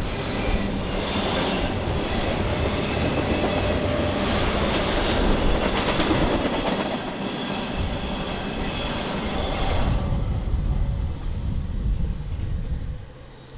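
Steel wheels of a double-stack intermodal freight train's well cars rolling and clicking along the rails as the cars pass. About ten seconds in, the sound thins and drops away as the end of the train goes by.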